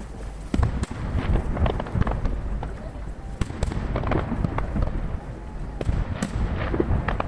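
Aerial firework shells bursting in quick, irregular succession: many sharp bangs and crackles over a low rumble, heard from far off. The recording is sped up threefold.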